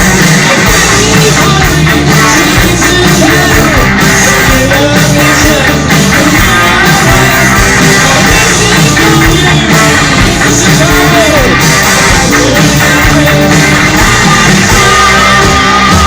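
Loud rock music: a band with electric guitar and drums, and a singing voice.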